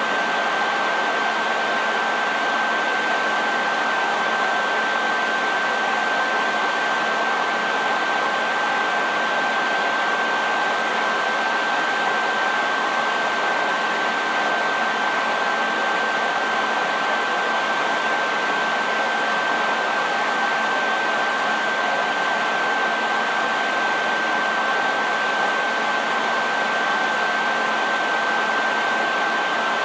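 Hair dryer running steadily: an even rush of blown air with a constant high whine from its motor and fan.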